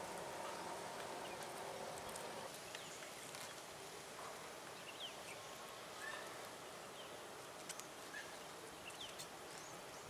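Outdoor ambience with scattered short, high chirps from small birds, each sweeping quickly downward, about one every second or so. A faint steady hum with several tones stops about two and a half seconds in.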